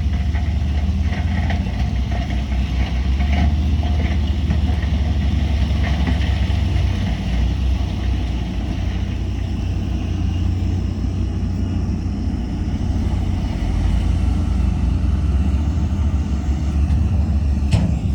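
Heavy earthmoving machinery's diesel engine running steadily, with scattered metallic clanks in the first few seconds and one sharp click near the end.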